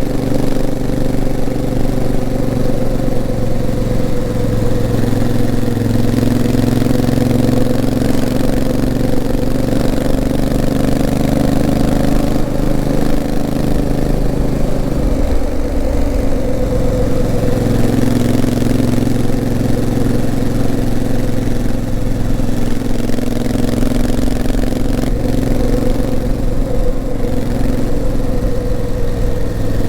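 Honda CRF1000L Africa Twin's parallel-twin engine running steadily under way, its pitch drifting slowly up and down with the throttle, with a change in pitch about halfway through.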